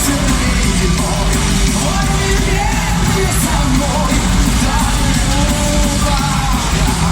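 Live heavy metal band performance: the full band playing loudly and steadily, with a sung vocal line over it.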